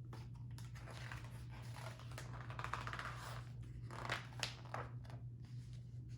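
Faint, irregular rustling and handling noises over a steady low hum.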